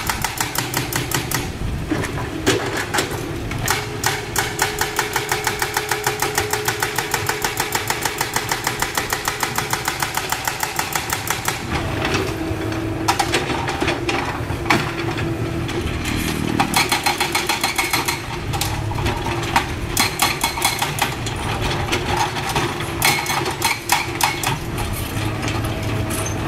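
Komatsu hydraulic excavator working in limestone: the engine runs steadily under a fast, even metallic knocking for about ten seconds, then irregular knocks and clatter.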